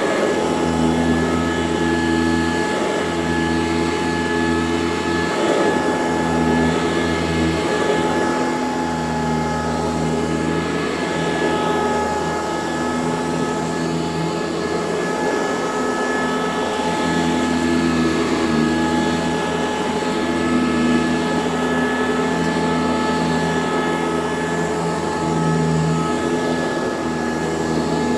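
Eureka C2094 commercial vacuum cleaner running steadily: a motor whine held on several steady tones over a low hum that dips and swells now and then.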